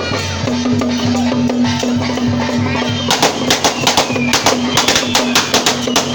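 Temple-procession drumming and percussion over a steady low tone; about three seconds in, a rapid, irregular string of sharp cracks from firecrackers sets off and keeps going.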